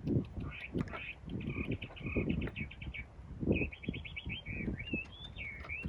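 A songbird singing: quick chirping trills, then rising and falling whistled notes near the end. Irregular low knocks and rustling run underneath.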